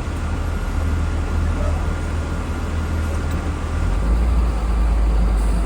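School bus engine and road noise heard from inside the cabin of a Blue Bird Vision, a low steady drone under a hiss of tyres. About four seconds in the drone drops lower in pitch and grows slightly louder.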